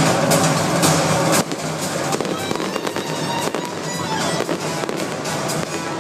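Fireworks crackling and popping over loud show music. The music is fullest at first and drops back about a second and a half in, leaving rapid sharp cracks over it.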